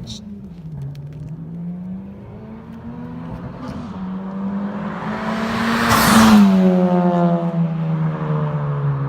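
2017 Honda Civic Type R's turbocharged 2.0-litre four-cylinder engine driving by under power. The engine note dips about half a second in, then climbs steadily as the car approaches. It is loudest with a rush of noise as it passes about six seconds in, and the note drops in pitch as it moves away.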